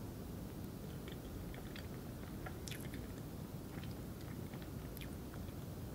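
Someone chewing a mouthful of soft tiramisu roll cake: small wet mouth clicks scattered irregularly over a steady low room noise.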